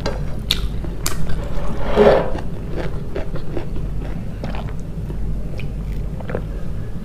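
Close-miked eating: a person biting and chewing food, with scattered small mouth clicks and a louder bite about two seconds in, over a steady low hum.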